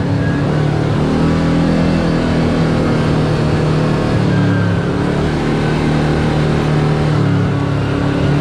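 Side-by-side UTV engine running steadily while driving along a trail, its pitch shifting slightly a few times as the throttle changes.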